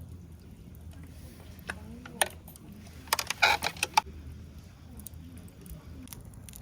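Light metallic clinking: one click about two seconds in, then a quick cluster of clinks and rattles about three to four seconds in.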